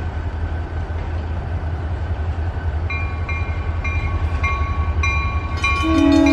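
Train rumbling steadily. About halfway through, a bell starts dinging about three times a second, and near the end a train horn sounds a loud multi-note chord.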